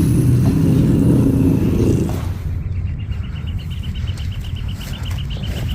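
A low motor-vehicle engine sound that fades away about two seconds in, followed by a rapid, even, high-pitched ticking trill.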